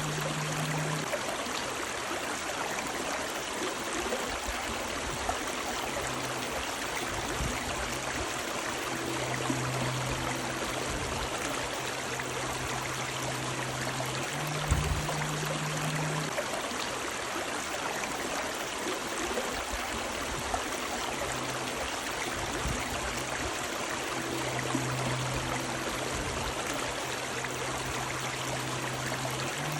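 River water running steadily over rocks, a continuous rushing and babbling. A faint low hum comes and goes underneath, and there is a single soft low thump about halfway through.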